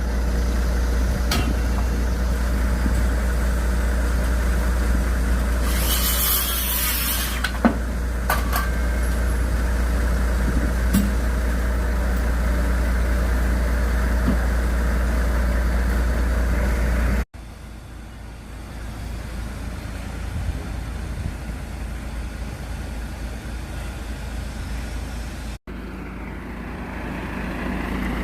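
A heavy engine running steadily with a low drone. A brief hiss comes about six seconds in. The drone drops off sharply about seventeen seconds in and carries on quieter.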